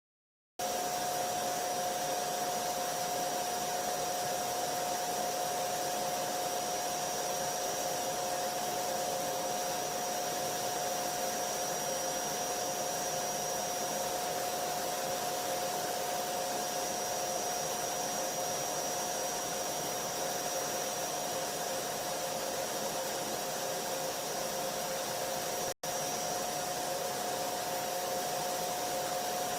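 Vacuum cleaner motor running steadily, an even rushing noise with a constant whine over it. It starts just under a second in and drops out for an instant about 26 seconds in.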